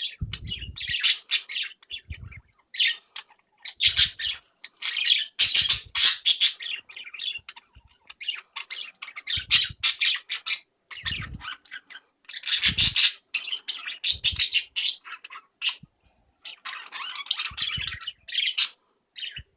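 Small pet birds chirping in quick, irregular bursts of high notes, with a few short low bumps now and then.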